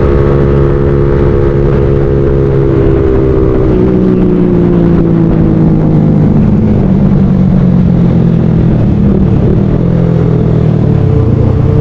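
Motorcycle engine running under way, heard from the riding bike. Its pitch holds steady, falls gradually from about three seconds in as the revs drop, then climbs again near the end.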